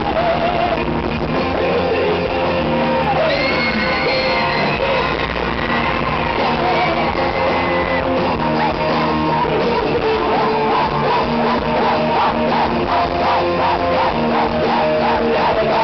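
Rock-style gospel song played by a band with guitar and a steady beat, a melodic lead line gliding and wavering in pitch over it.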